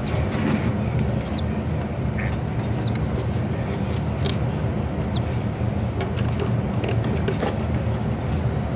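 Thin, high-pitched squeaks from conure chicks, a few short calls a second or two apart, over a steady low hum.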